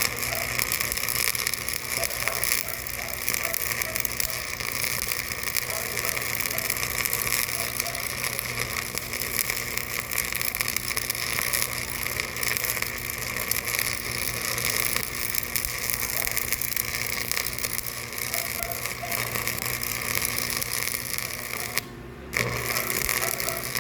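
Steady machinery noise with a continuous rapid clicking clatter and faint voices underneath; it cuts out for about half a second near the end.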